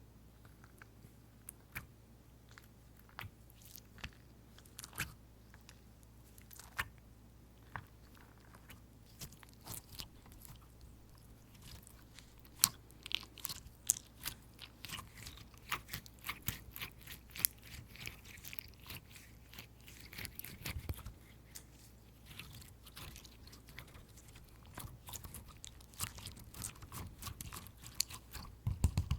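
Fingers tapping and squeezing tapioca slime: sharp, sticky clicks, scattered at first, then coming thick and fast from about ten seconds in.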